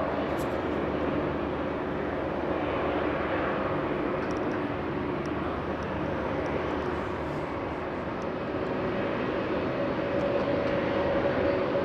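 Airbus A320 jet engines running with a steady noise and hum; the hum grows a little stronger near the end.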